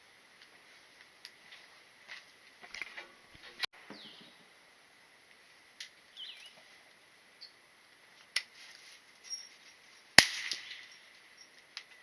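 A single loud gunshot about ten seconds in, ringing out briefly, with scattered fainter sharp cracks and clicks before it.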